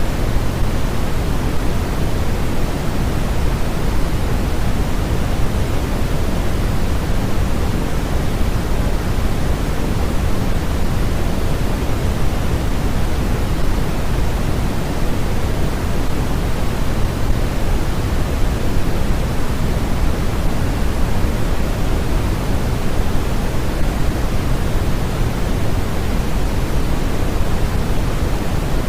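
Steady generated white-noise track: an even, unchanging hiss, weighted toward the low end.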